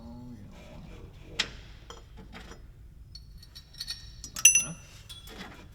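Metal tools and parts clicking and clinking while work goes on at an engine, with the loudest a ringing metal clink about four and a half seconds in.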